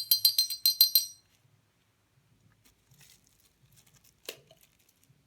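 Rapid metallic jingling, about seven strokes a second, that stops about a second in. Then faint handling noises and one sharp click about four seconds in.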